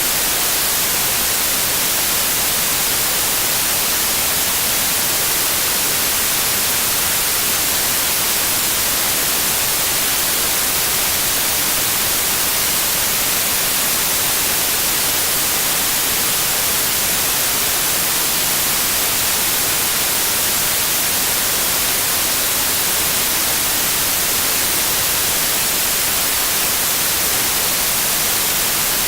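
Steady white noise, an even hiss strongest in the highs, with a faint steady tone in it that the title gives as the 528 Hz Solfeggio frequency.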